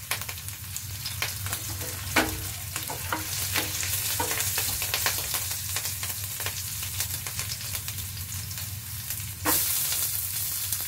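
Chopped garlic and green chillies sizzling in hot oil in a frying pan, a steady hiss with scattered crackles. About nine and a half seconds in, a heap of chopped onion goes into the pan and the sizzle jumps louder.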